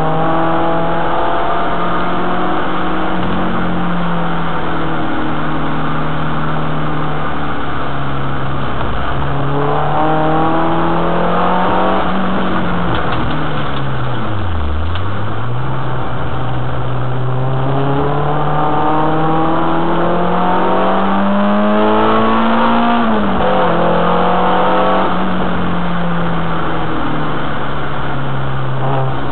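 Renault Clio 2 RS's 2.0-litre four-cylinder engine driven hard on track. The engine pitch mostly holds, falls steeply to low revs about halfway through as the car slows, then climbs steadily to a high peak near the end before dropping back.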